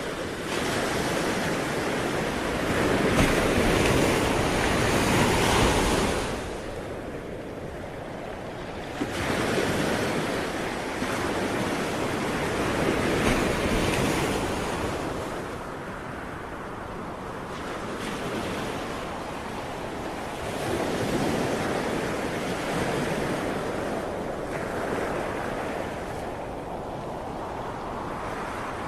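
Ocean waves breaking and washing up the shore in slow surges, each swell rising and fading over several seconds, with some wind.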